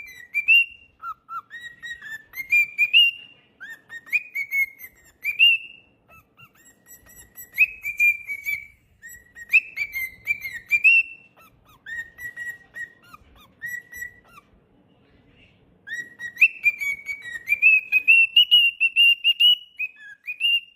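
Cockatiel whistling a song: short phrases of clear, rising whistled notes, a pause of about two seconds past the middle, then a quicker run of repeated notes near the end.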